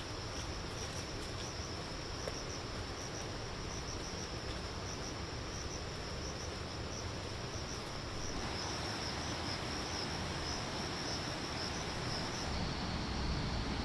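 Outdoor insect chorus: a steady high-pitched trill of crickets or similar insects over a soft background hiss.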